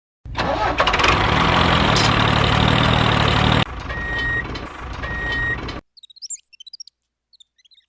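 A loud, noisy motor-like running sound with a low hum that cuts off suddenly, then two short steady high beeps about a second apart, and a few faint scattered chirps near the end.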